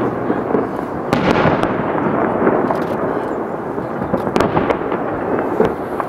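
Fireworks display: a dense, continuous run of crackling bursts, with sharp bangs about a second in and again about four and a half seconds in.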